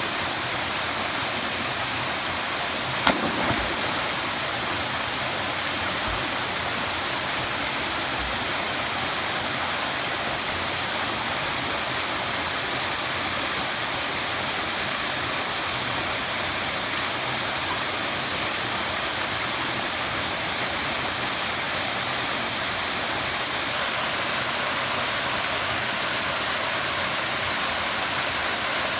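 Waterfall rushing steadily, with one sharp knock about three seconds in.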